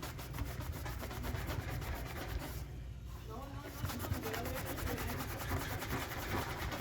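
Steady scrubbing and wiping of a mini fridge's surfaces with a cloth, a quick run of rubbing strokes.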